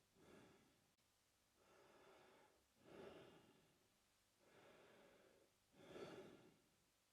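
A man breathing slowly and faintly through his mouth, in and out. There are about three breath cycles, each a longer, softer breath followed by a shorter, louder one.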